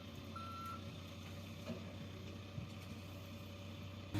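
A heavy vehicle's reversing alarm gives one last short beep in the first second, over a steady low engine rumble that carries on alone.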